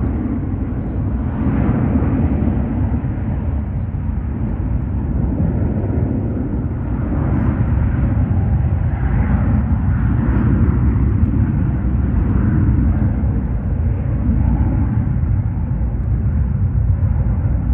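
Jet airliner engines running, a loud, steady low rumble that holds throughout without clear breaks.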